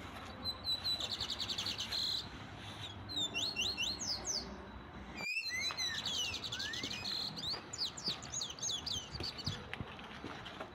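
Small birds singing: rapid trilled chirps and quick falling whistles, with the sound cutting out for a moment about five seconds in.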